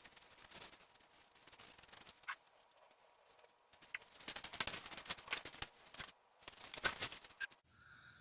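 Hand-cleaning of a grimy small two-stroke bicycle engine kit: quick, irregular rubbing and scrubbing strokes, faint at first and busier and louder from about four seconds in.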